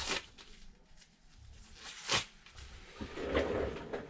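Disposable gloves being pulled off the hands: two brief snaps about two seconds apart, then a rustle near the end.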